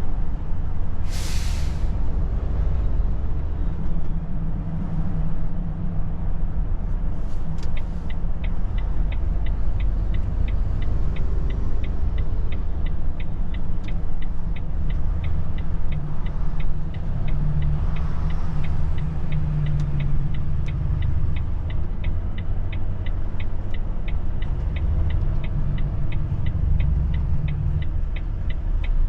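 Volvo truck's diesel engine running, heard from the cab, with a short air-brake hiss about a second in. From about eight seconds in, a turn-signal indicator ticks steadily, a few ticks a second.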